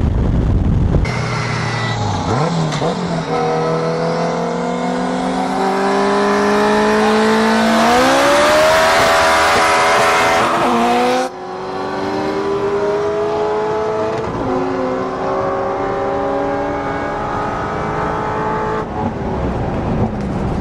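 Turbocharged Honda K20A2 four-cylinder engine pulling hard under boost, its pitch climbing for several seconds. About eleven seconds in the sound cuts off abruptly, and the engine then runs on at a lower, steadier pitch that rises slowly.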